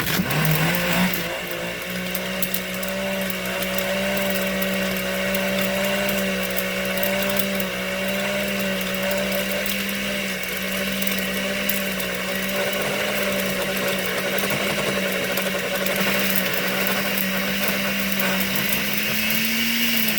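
Kitchen blender running on a liquid slurry of ground pencil graphite, water, dish soap, acetone and salt, a step in shearing the graphite toward graphene. The motor starts suddenly, its pitch climbing over the first second, then holds a steady hum and whir until it cuts off abruptly at the end.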